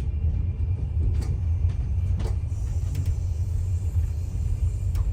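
Steady low rumble of a passenger train under way, heard inside the carriage, with a few faint knocks and rattles.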